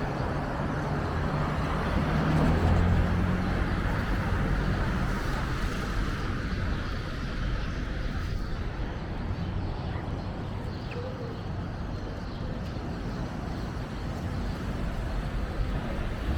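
Road traffic: a vehicle's engine hum swells and passes in the first few seconds, over a steady noisy rumble.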